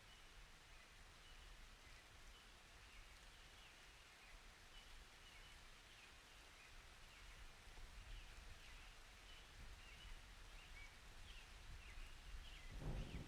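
Very faint storm ambience: a soft hiss and low rumble with a scatter of small high chirps throughout. Right near the end a roll of thunder starts to build.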